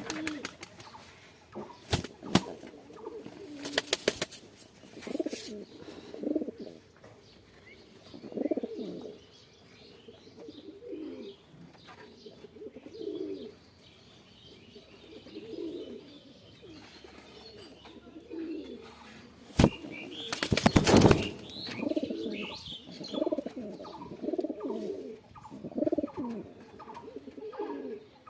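Sirazi (Lahore) domestic pigeons cooing over and over in short low phrases. Bursts of wing flapping break in about 2 and 4 seconds in, and most loudly about 20 seconds in.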